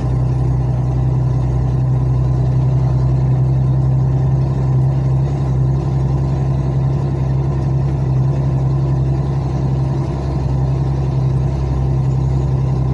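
Truck engine running with a steady low drone, unchanging in pitch and level.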